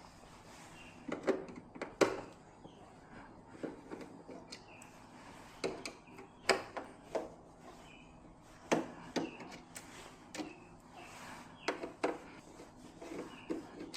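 Irregular knocks and clicks of hard objects being handled and set down, about a dozen scattered through, over a faint steady hiss.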